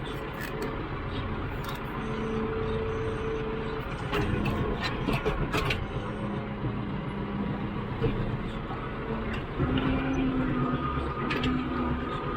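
Tractor engine running steadily, its pitch stepping up and down as it works, with a few sharp knocks along the way.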